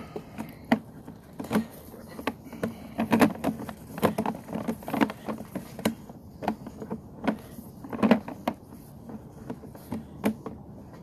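Sewer inspection camera and its push cable being fed down a cleanout, knocking and clunking irregularly about once or twice a second. The loudest knocks come about three and eight seconds in.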